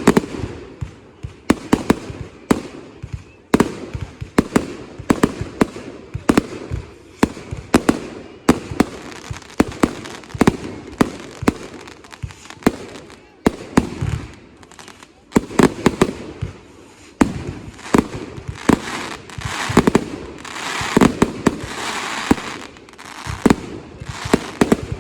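Consumer fireworks display going off: a rapid, irregular series of sharp bangs from shells and cakes, with a denser hissing stretch of bursts about twenty seconds in.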